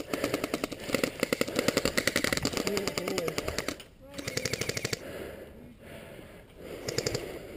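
Airsoft electric guns firing on full auto: a rapid, even clatter of shots lasting about four seconds. It thins out, then picks up again near the end.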